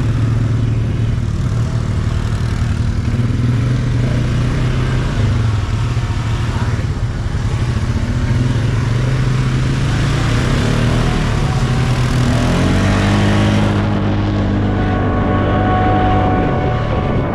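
ATV engine running steadily under way, with wind rush on the microphone. About twelve seconds in, the engine revs up and its pitch rises.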